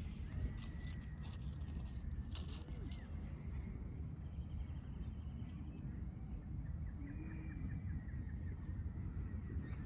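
Tarot cards handled and flipped by hand, with a few brief papery swishes near the start and about two and a half seconds in. Under them runs a steady low rumble, with faint bird chirps and a short trill near the end.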